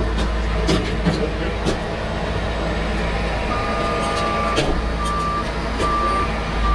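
Heavy truck diesel engine running steadily. About three and a half seconds in, a backup alarm starts beeping at about one beep a second, signalling a vehicle reversing.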